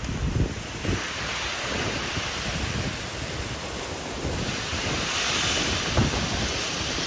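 Severe thunderstorm winds gusting in a steady rush that swells about five seconds in, with low buffeting of wind on the microphone in the first second.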